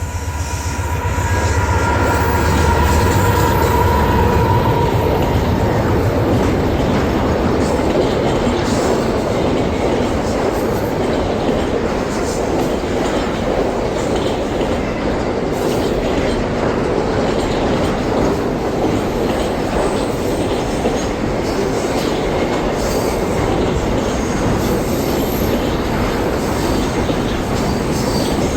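Freight train hauled by GE AC44i diesel locomotives passing close by. A heavy low engine hum with a steady whine fades over the first few seconds, then loaded wagons roll past steadily with clickety-clack over the rail joints and some wheel squeal.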